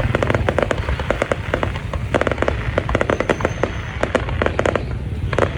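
Fireworks going off in a dense run of crackling pops and bangs, several a second, over a continuous low rumble.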